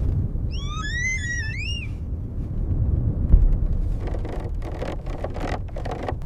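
Steady low rumble of blizzard wind. About half a second in, a wolf gives one high, wavering whine that rises in pitch and lasts just over a second. Later come several short scraping, rustling noises.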